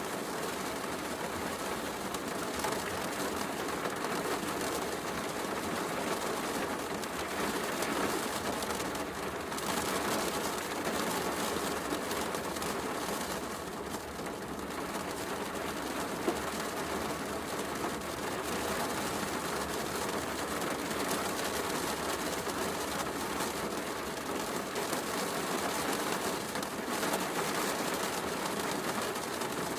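Heavy rain falling steadily, mixed with a fireplace crackling; one sharper crack a little past halfway.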